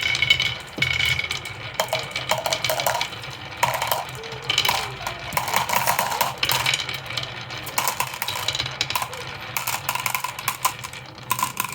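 Many marbles clattering and rolling down a marble-run track, with rapid, uneven clicks and knocks as they hit each other and the track pieces.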